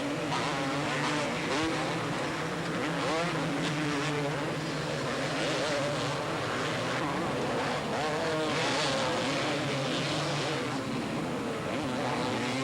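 Two-stroke motocross bikes racing, their engines revving up and down continuously as riders go through the gears.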